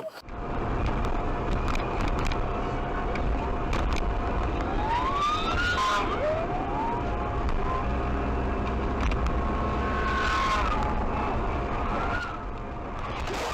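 Steady road and engine rumble of a car driving, recorded from a dashcam, with a thin steady tone over it. A few brief high rising tones come about five and six seconds in, and more high pitched tones follow near ten seconds.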